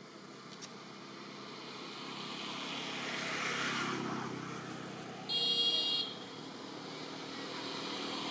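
A motor vehicle passing, its noise swelling to a peak a little past the middle and fading, with another starting to build near the end. A short, loud, steady high-pitched tone cuts in for under a second after the first one passes.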